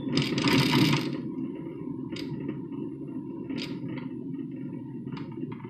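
Steady low road noise inside a moving truck's cabin. A loud hissing rush fills the first second, followed by a few scattered faint clicks.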